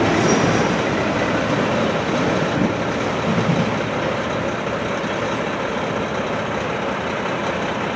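Freight train of auto rack cars pulling away down the track: a steady rumble of wheels on rail, slowly fading as the last cars recede.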